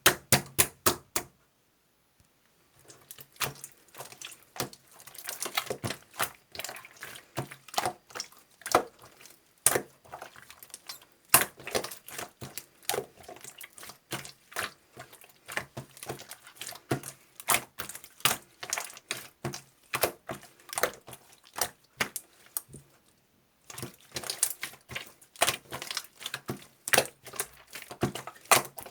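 Rapid, irregular clicking and tapping from hands working with small objects, with two brief pauses, one about two seconds in and one near three-quarters through.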